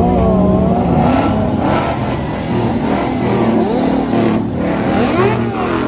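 Car engine revving, its pitch rising and falling several times over a steady low rumble.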